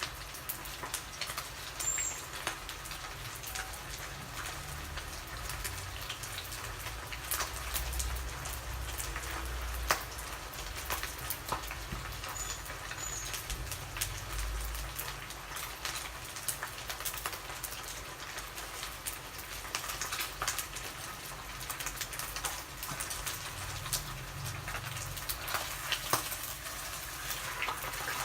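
Cobia frying in hot oil in a pan: a steady dense crackle of spitting oil with many small pops.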